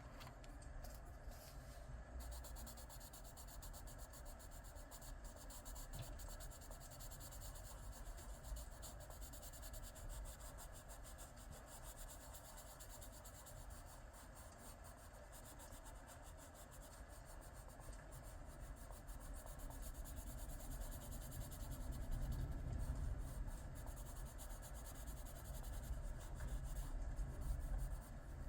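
Coloured pencil shading on paper: quick back-and-forth scratchy strokes that run on continuously. They grow somewhat louder in the last few seconds.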